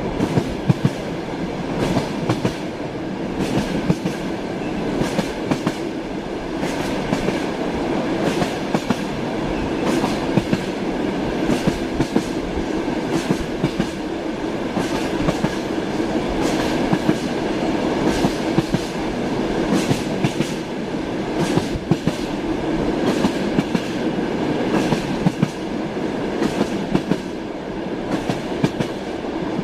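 Railway carriage wheels clattering over the rail joints, a clickety-clack of sharp clicks in small groups every second or two over a steady running rumble.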